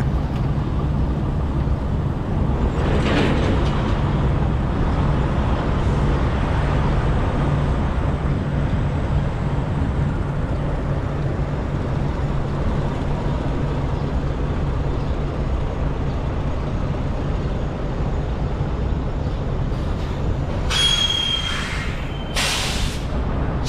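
Diesel semi-trucks idling in a truck-stop lot, a steady low rumble with a constant low hum. About three seconds in there is a short hiss, and near the end come several sharp blasts of air-brake hiss.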